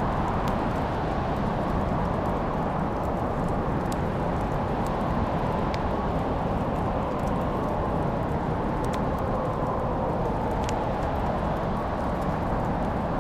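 Wood fire crackling in a fireplace: a steady low rush of flames with sharp pops and snaps scattered every second or two.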